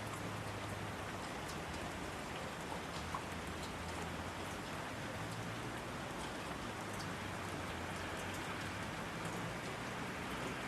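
Steady rainfall, an even hiss with scattered drops pattering on surfaces.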